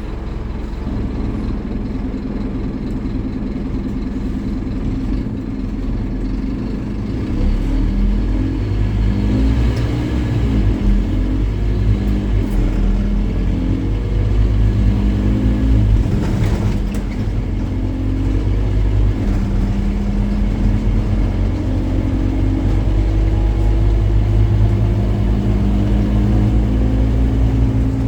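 Scania N270UD OmniCity double-decker bus engine pulling hard from about seven seconds in, its pitch climbing and dropping back several times as it works up through the gears, then running on steadily.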